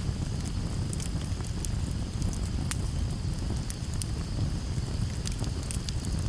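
Campfire burning: a steady low rush of flame with irregular sharp crackles and pops from the burning wood.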